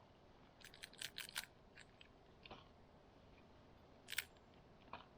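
Near silence with a few faint, short clicks: a quick cluster of them about a second in, then single ones near the middle and near the end.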